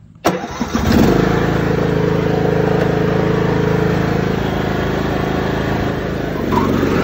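Riding lawn mower engine starting: it catches almost at once and settles into a steady run, its tone shifting slightly near the end.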